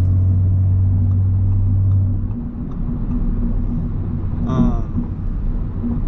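Audi S5 heard from inside the cabin while driving: a steady low engine drone over road rumble, the drone dropping away about two seconds in as the car eases off. A brief rising tone sounds about four and a half seconds in.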